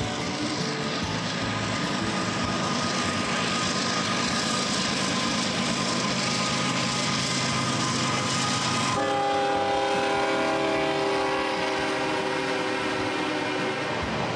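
Diesel-hauled freight train passing: locomotives running and cars rolling on the rails. About nine seconds in, the locomotive's horn sounds one long blast of several tones at once, lasting about five seconds.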